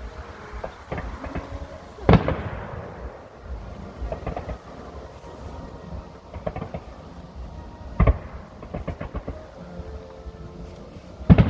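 Fireworks display: three loud shell bursts, about two seconds in, about eight seconds in and near the end, each trailing off as it echoes. Smaller crackling pops come in between.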